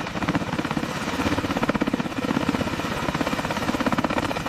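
Heavy-lift helicopter with its rotors turning, the blades beating in a fast, even rhythm at steady power.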